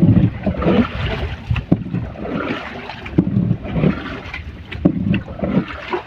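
Wind buffeting the microphone over a small boat being paddled, with irregular gusty rumbles, paddle splashes and a few sharp knocks.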